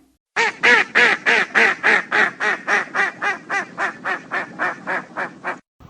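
A duck quacking in a fast, even run of about eighteen quacks, some three a second, getting gradually softer toward the end.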